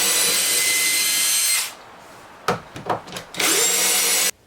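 Power drill-driver running screws in the door trim: one steady run of about two and a half seconds that stops, a few clicks, then a second short run of under a second near the end.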